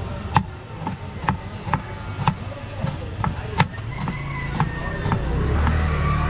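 Knife chopping an onion on a board, sharp cuts at about two a second. Street traffic runs underneath, and a vehicle grows louder near the end.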